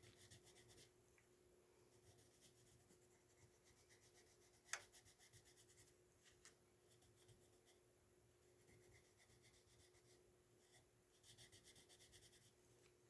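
Faint scratching of a coloured pencil drawn back and forth across paper in short, quick strokes, with a denser run of strokes near the end and one soft tap about five seconds in.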